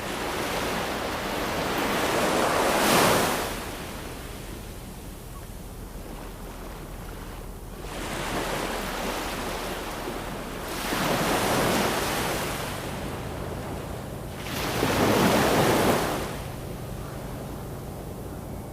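Ocean waves breaking and washing up a shore: three strong waves swell and fade, with a smaller one between them and a steady hiss of surf in the lulls.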